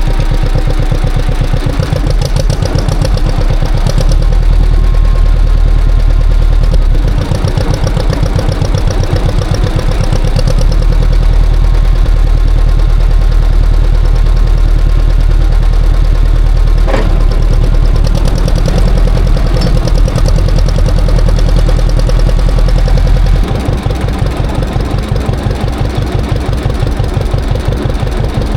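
John Deere tractor engine running with an even pulsing exhaust note. It gets louder about four seconds in and eases off shortly before the end, with a single sharp click near the middle.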